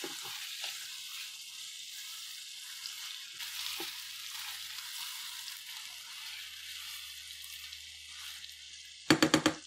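Chicken pieces sizzling steadily as they fry in ghee in a karahi, turned now and then with a silicone spatula. A short, louder sound cuts in near the end.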